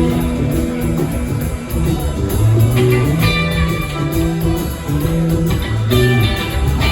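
Live rock band playing an instrumental passage: guitar lines over a moving bass line.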